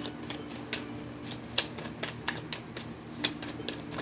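Tarot cards being handled and shuffled, with irregular sharp clicks and snaps a few times a second over a faint steady hum.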